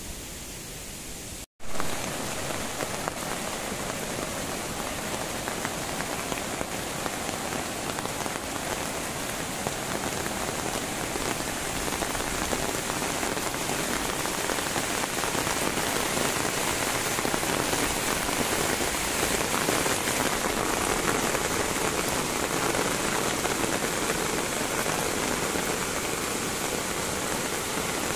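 Steady rain falling on wet ground, a dense hiss of many drops. About a second and a half in the sound cuts out for an instant and comes back louder.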